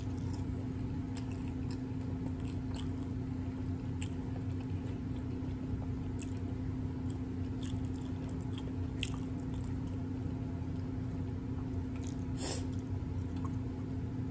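Close-up chewing and biting of a crunchy hard taco shell (Old El Paso spicy jalapeño cheddar), with scattered crackles of the shell and wet mouth sounds over a steady low hum. One louder crunch comes near the end.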